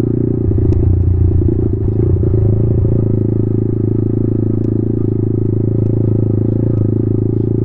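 Yamaha MT-15's single-cylinder 155 cc engine running steadily in third gear at low speed on a rough dirt track. The bike clatters over the bumps during the first few seconds.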